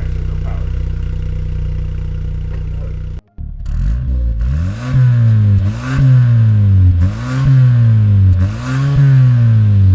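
2022 Hyundai Sonata with an X-Force valved cat-back exhaust idling steadily, then, after a brief cut about three seconds in, revved in a series of free-revs, the exhaust note rising and falling about every second and a half.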